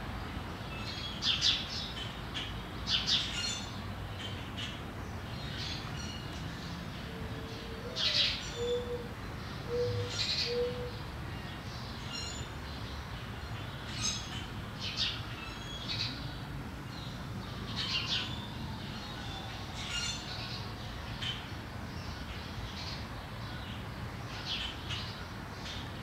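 Wild birds chirping, short high calls every second or two, and about eight seconds in a low call of four cooing notes, over a steady low background rumble.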